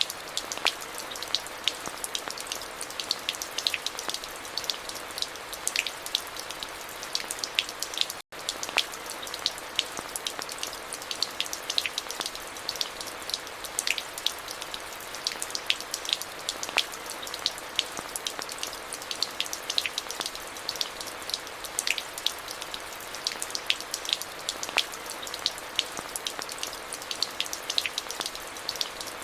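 Steady rain: a constant hiss with many separate drops ticking sharply. The sound drops out for a split second about eight seconds in.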